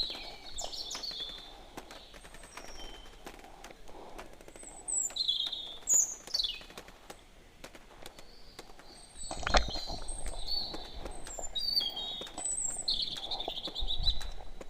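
Small birds chirping and calling in short, high, sliding notes. About nine and a half seconds in there is a sharp knock, followed by a low rumble.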